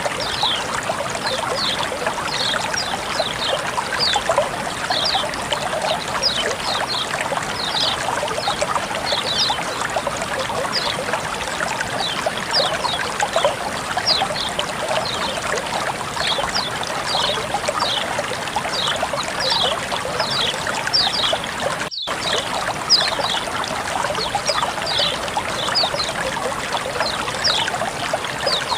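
Water flowing and trickling steadily, with short, high, falling chirps recurring every second or so. The sound cuts out for an instant about two-thirds of the way through.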